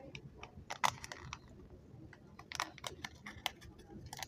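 Chewing of chewy chocolate candy: irregular sticky, wet mouth clicks and smacks.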